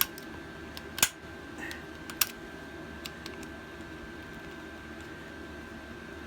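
Sharp metallic clicks and taps from a screwdriver working the valve springs and retainers of a small 3.5 hp edger engine as the valves are freed. Three clear clicks, the loudest about a second in, then a couple of lighter ticks, over a faint steady hum.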